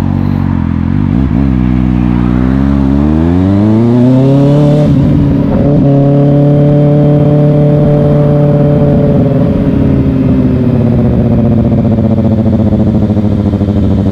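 Sport motorcycle engine accelerating, its pitch rising smoothly for a few seconds, then holding steady at speed and easing off slightly near the end.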